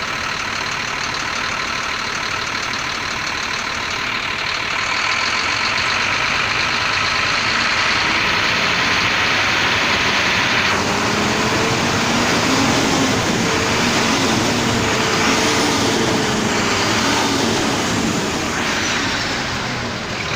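Mercedes-Benz OF 1724 bus's four-cylinder diesel engine running, getting louder from about four seconds in and easing off again near the end.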